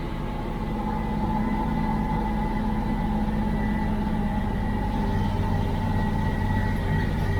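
IFA L60 truck's six-cylinder diesel engine running steadily, heard from inside the cab. It gets a little louder about a second in.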